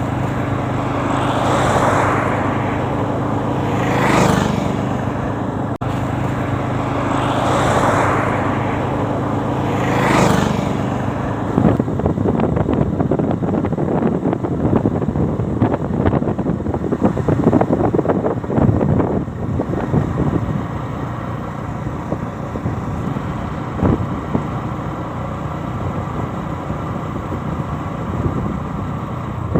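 Motorcycle ride heard from on board: the engine runs at a steady hum while wind buffets the microphone. Four louder swells come in the first ten seconds or so, after which the sound turns into a rougher rumble of wind and road noise.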